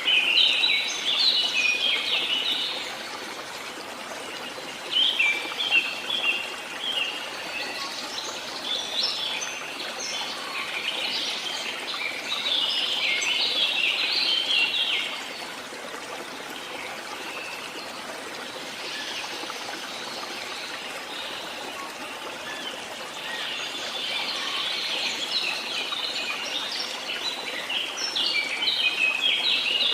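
Small songbirds chirping and twittering in several bouts, thick at the start, about five seconds in, between about eight and fifteen seconds, and again over the last several seconds, over a steady background hiss.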